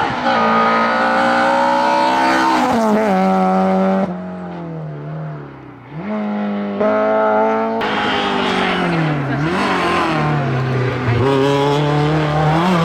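Racing car engine on a hillclimb run, driven hard: the revs climb and drop sharply again and again through gear changes and lifts for corners. It falls away lower and quieter about four seconds in, then picks up again and is loud from about eight seconds on.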